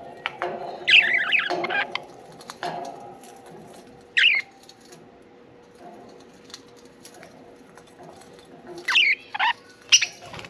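Budgerigars chirping in short, squawky calls that glide in pitch: a burst about a second in, one around four seconds in, and a few more near the end. Between them come scattered small clicks and crackles of beaks working at a soft-wood shredding toy.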